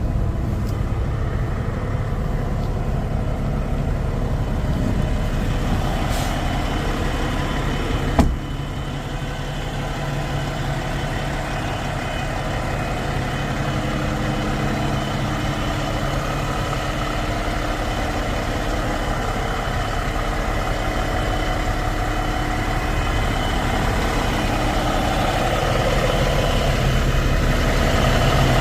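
Peterbilt 567 semi truck's diesel engine idling steadily with a deep rumble. A single sharp knock comes about eight seconds in.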